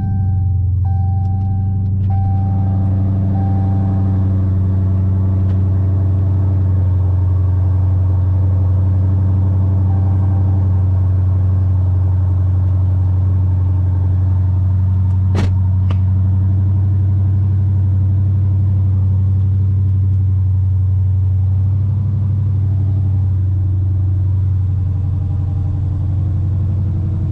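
Dodge Challenger's engine idling steadily just after being started, with a warning chime beeping repeatedly over the first few seconds. A single sharp click sounds about fifteen seconds in.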